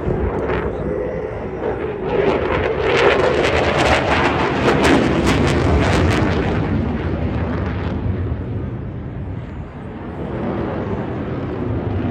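Eurofighter Typhoon jet fighter's twin turbofans passing overhead in a display, building to a loud crackling peak a few seconds in and then fading away.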